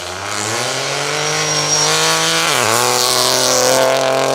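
Rally car engine accelerating hard, its note climbing steadily, dipping sharply at a gear change about two and a half seconds in, then climbing again.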